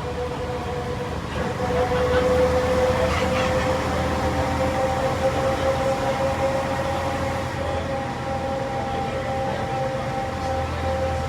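Bus engine and transmission running under way, a steady whine in two tones that rises slowly in pitch over a low rumble, from an ex-State Transit bus built in 1978.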